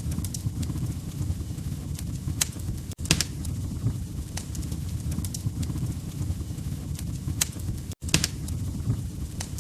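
Wood fire in a fireplace burning with a low rumble and irregular sharp crackles and pops. The sound drops out for an instant twice, about 3 and 8 seconds in.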